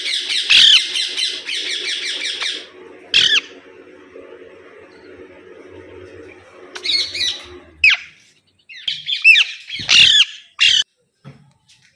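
Pet green parrots screeching: a loud, fast run of shrill repeated squawks for about two and a half seconds, then single sharp calls, and a burst of several screeches near the end.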